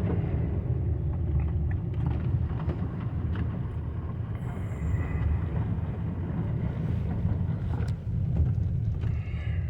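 Steady low rumble of a Toyota Camry driving on a snow-covered road, heard from inside the car: engine and tyre noise.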